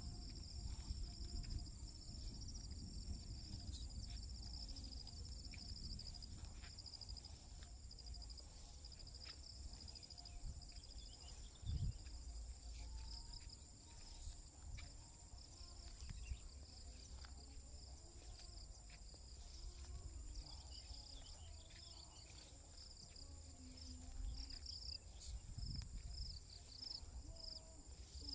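A chorus of insects: one steady high-pitched buzz with a rapid pulsing chirp just below it, over a low rumble, with a single thump near the middle.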